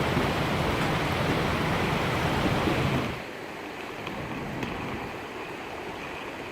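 Wind rushing over the microphone of a motorcycle action camera while riding, a loud even roar that drops sharply to a softer hiss about three seconds in.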